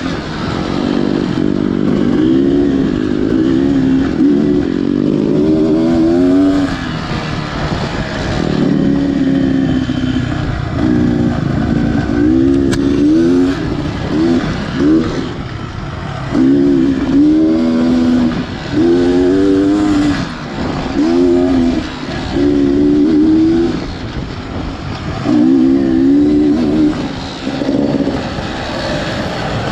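Beta Xtrainer 300 two-stroke dirt bike engine revving up and dropping back over and over in short bursts of throttle while being ridden.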